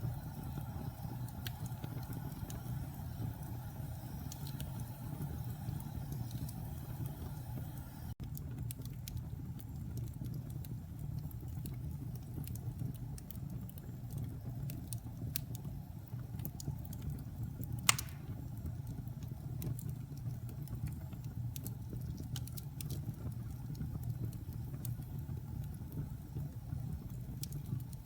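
Wood fire in a fireplace crackling over a steady low rumble of flames, with scattered small crackles and one sharp loud pop about two-thirds of the way through.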